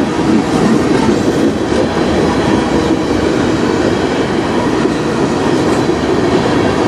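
Freight train cars (tank cars and covered hoppers) rolling past close by: a steady, loud noise of steel wheels running on the rails, with clickety-clack from the wheel trucks.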